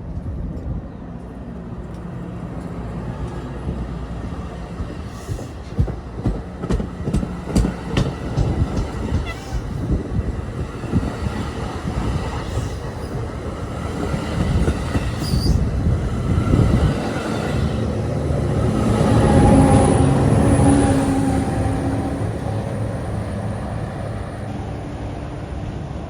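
NJ Transit commuter train passing, its wheels clicking over rail joints, swelling to its loudest about two-thirds of the way through with a steady pitched hum from the train, then fading as it moves away.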